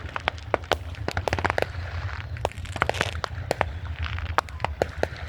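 Fireworks going off in quick irregular succession: many sharp bangs and cracks, several a second, some with a crackling tail, over a continuous low rumble.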